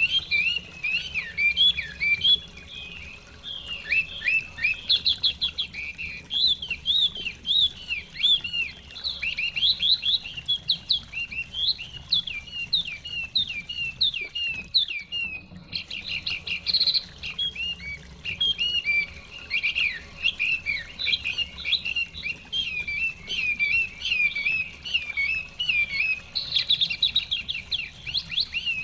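Chinese hwamei (họa mi) singing a long, rapid, unbroken run of varied whistled phrases, with a brief pause about halfway through.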